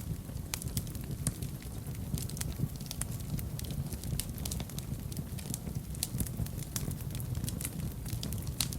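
Fire burning in a fireplace and crackling: frequent irregular sharp pops and snaps over a low, steady rumble of the flames.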